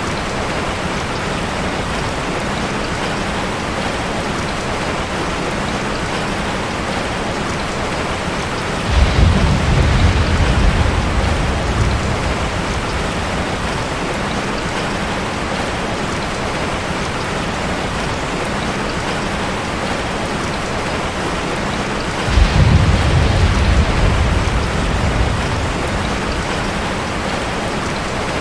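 Steady rain drumming on a metal roof, with two rolls of thunder: one about nine seconds in and another about twenty-two seconds in, each coming on suddenly as a deep rumble and fading over a few seconds.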